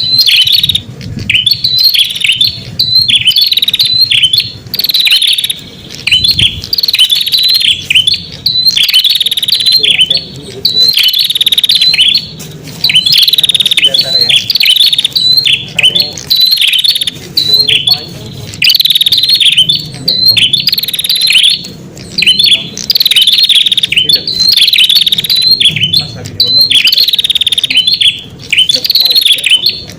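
Prenjak calls used as a lure to bring in wild prenjak: loud, fast, high chirping phrases, repeated over and over with short pauses about every second.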